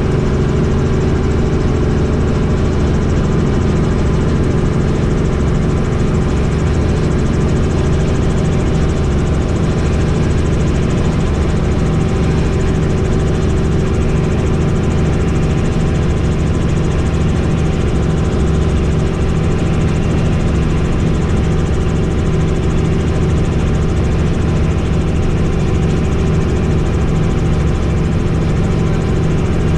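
Helicopter in flight: steady rotor and turbine engine drone, even in pitch and loudness throughout.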